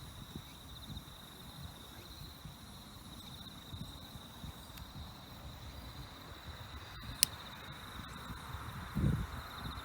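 Insect trilling steadily at one high pitch over low rumbling outdoor noise. A single sharp snap about seven seconds in, and a low thump near the end.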